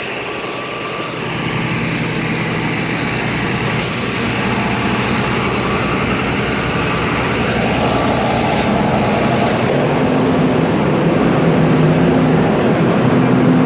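Bus engine running steadily and growing slightly louder, with a brief hiss about four seconds in.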